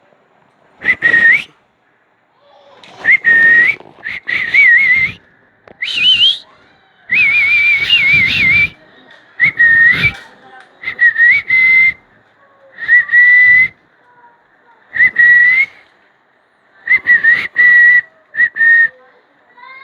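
Baby Indian ringneck parakeet calling: about ten short, shrill whistled calls in a row, each with a rough, raspy edge, some rising or wavering at the end.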